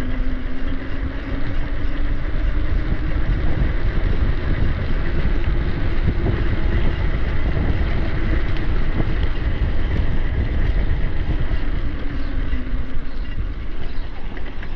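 Mountain-bike ride heard from an action camera: steady wind buffeting the microphone over the rumble of knobby tyres rolling on trail. A faint hum rises in pitch through the first half and falls again near the end.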